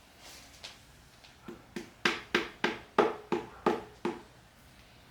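A quick series of about nine light, ringing taps, about three a second, struck on a connecting-rod bolt of a Nissan VG30DETT V6 to knock the rod cap loose. The taps start about a second and a half in and stop about four seconds in.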